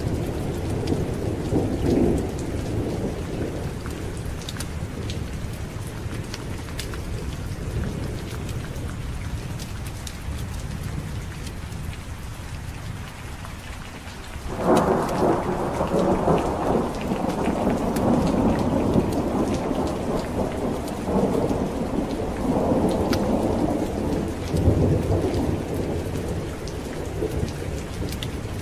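Steady rain with rolling thunder. A low rumble fades away over the first half, then a new thunderclap breaks sharply about halfway through and rumbles on, swelling and easing, to the end.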